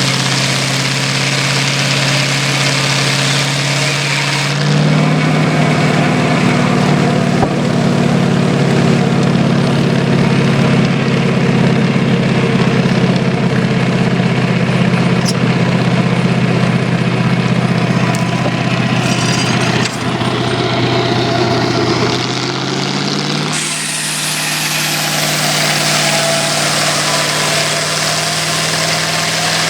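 Chevy V8 engine powering a circular head-saw sawmill, running steadily. About four seconds in it speeds up and gets louder and noisier, holds there until a few seconds before the end, then drops back to an even idle.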